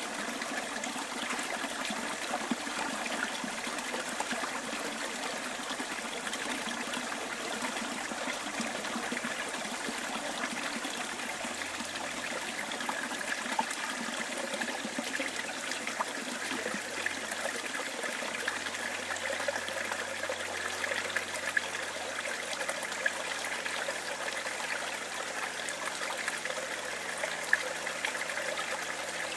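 Small bush stream trickling and babbling steadily over stones, with many small irregular splashes.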